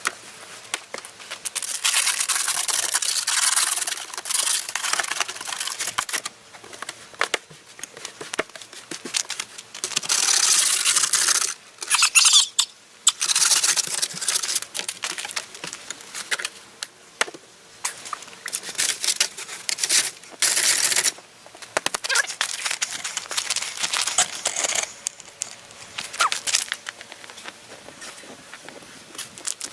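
Brushing and scraping snow off a vehicle: repeated scratchy, hissing strokes that come in stretches of a few seconds, with quieter gaps between them.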